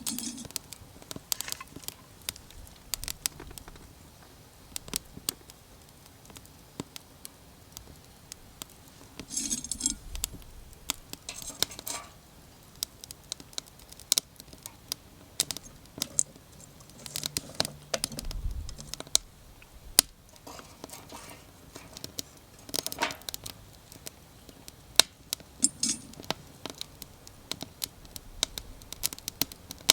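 Small wood fire crackling, with irregular sharp pops and snaps. Several brief rustling or scraping sounds, each about half a second to a second long, come in among them.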